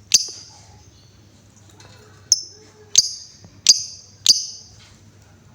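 Female lovebird giving sharp, high single 'tik' calls, five in all: one at the start, then four a little over half a second apart. These are the clipped 'ngetik' notes she strings together before breaking into a chattering trill.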